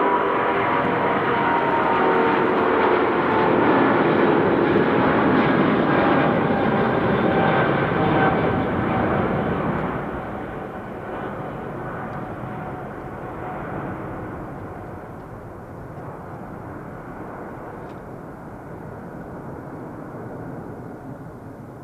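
Boeing 777 airliner's twin jet engines passing close and loud, then fading away, their whine falling in pitch as the aircraft goes by.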